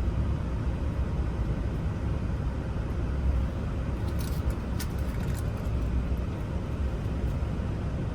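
A key tried in a freshly wafered ignition lock cylinder: a quick cluster of small metallic clicks about four to five and a half seconds in, over a steady low rumble.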